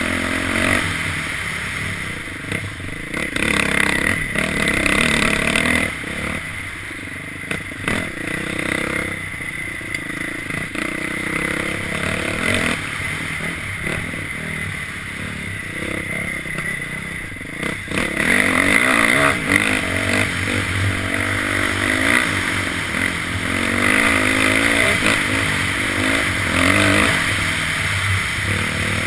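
Dirt bike engine running, its pitch rising and falling again and again as the throttle opens and closes, with a few short knocks.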